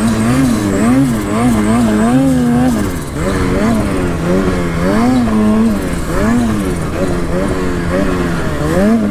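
Snowmobile engine revving up and down over and over as the throttle is worked, its pitch rising and falling about every half second, with a few brief steadier stretches.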